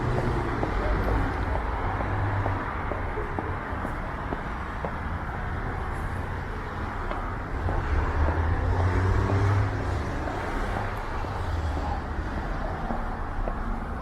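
City road traffic running steadily, with the rumble of vehicles swelling louder about eight seconds in as traffic passes.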